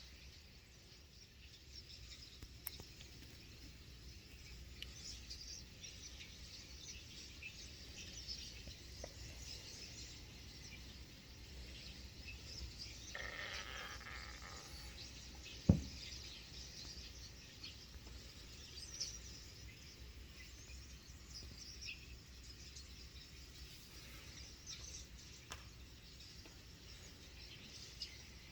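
Many small birds chirping with short, high calls throughout. A brief rush of noise comes about halfway through, followed by a single sharp click, the loudest sound, with a couple of fainter clicks later.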